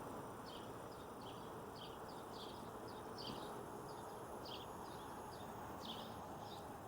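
Small birds chirping faintly, short irregular chirps repeating over a steady low background hum.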